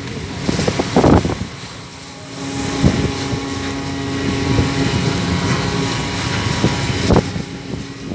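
Fishing boat's engine running steadily under wind noise on the microphone, with a few sharp thumps, about a second in, near three seconds and past seven seconds.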